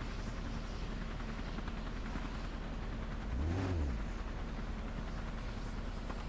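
A vehicle running with a steady low hum. About three and a half seconds in, it grows briefly louder as its pitch rises and falls once.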